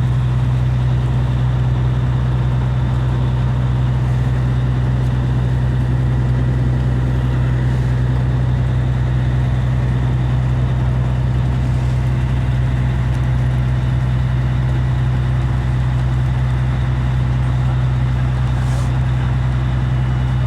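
Boat engine running steadily under way, a loud constant low drone that holds the same pitch and level throughout.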